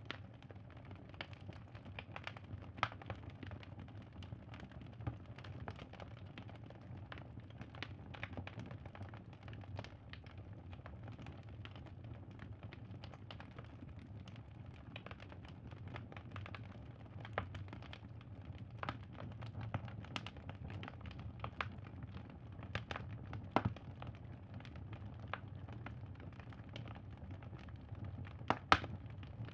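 Wood fire crackling, with irregular sharp pops and snaps over a low steady rumble; a few louder pops come near the end.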